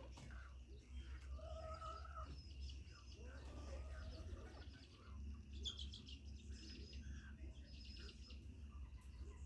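Chickens calling faintly: scattered clucks, one short drawn call and high chirps, over a steady low hum.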